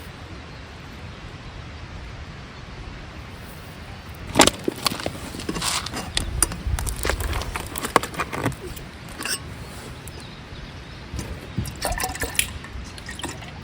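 Liquid sounds: a run of drips and small splashes starting about four seconds in, with a shorter second bout near the end.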